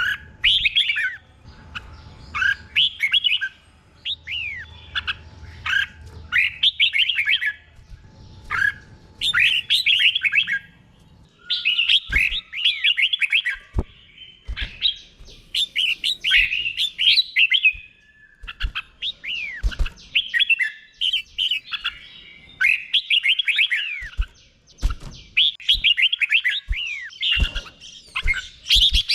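Red-whiskered bulbul singing its 'double' (berl) song: short phrases of quick, sweeping whistled notes, repeated every second or two. A few sharp clicks come in the second half.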